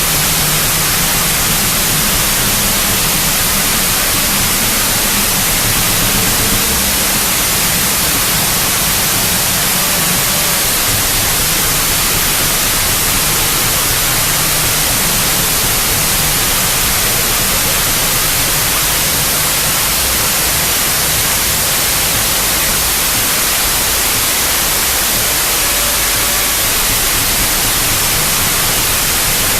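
Noise-music demo: a loud, unbroken wall of static hiss, brightest in the highs, with a rough low rumbling layer beneath that fades down about halfway through.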